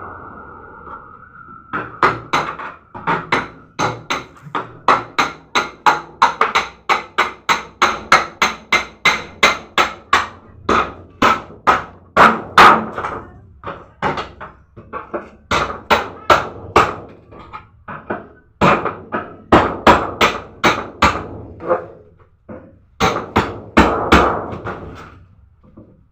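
Hammer blows on metal, about two to three a second, each ringing briefly, with a few short pauses. A steady tone dies away in the first two seconds before the blows begin.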